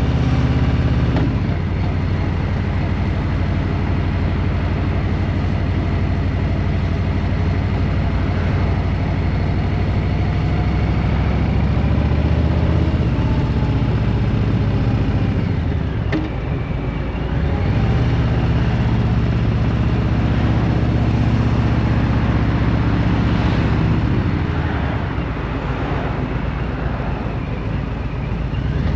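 A vehicle's engine running while driving, its pitch shifting with throttle and load. About halfway through it eases off and the engine note drops, then picks up again a second or two later.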